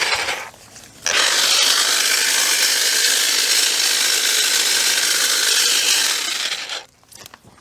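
Battery-powered saw running and cutting through bush branches. It cuts out about half a second in, starts again about a second in, and runs steadily until it stops near the end.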